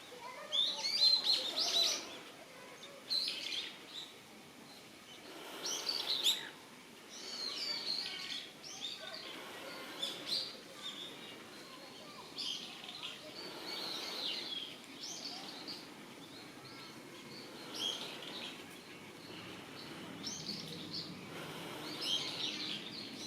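Red-billed leiothrix calling: clusters of short, high chirps that come every second or two.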